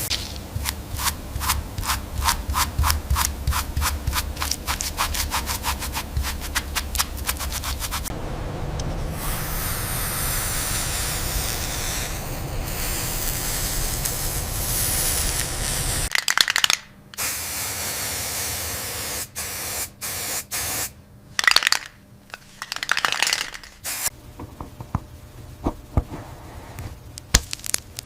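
About eight seconds of rapid, regular clicking, roughly five a second, then a steady spraying hiss for about eight seconds. In the last part, short spray bursts start and stop with gaps between them.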